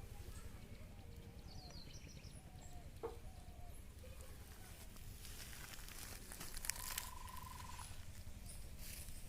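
Quiet outdoor ambience: a steady low rumble with scattered faint bird calls, and one longer trilled call about seven seconds in.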